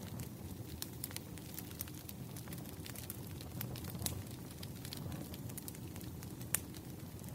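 Wood fire burning, a steady low rumble of flames with frequent sharp crackles and snaps of the burning logs, and one louder pop about six and a half seconds in.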